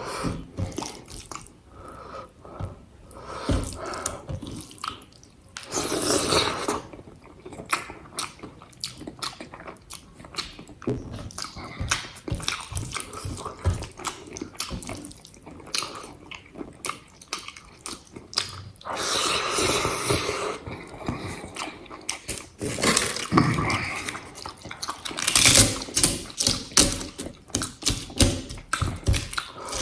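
Close-miked mukbang eating of a rice and egg curry meal: wet chewing and mouth clicks, with a few louder noisy stretches of about a second.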